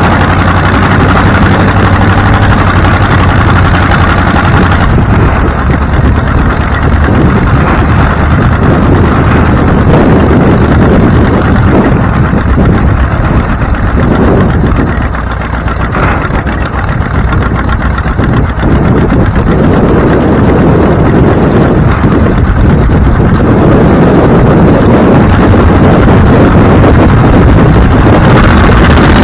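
Motor vehicle engine running loudly. A steady low hum for the first five seconds gives way to a rougher, noisier sound for the rest.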